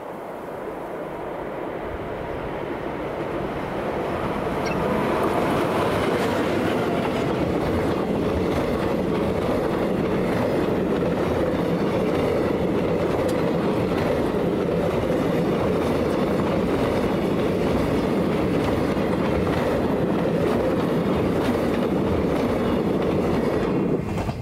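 JR Freight DF200 diesel-electric locomotive and its long train of container wagons passing close. The sound grows over the first few seconds as the train approaches, then holds as a steady heavy rumble of wheels on rails with faint clicking. It drops away suddenly near the end as the last wagon goes by.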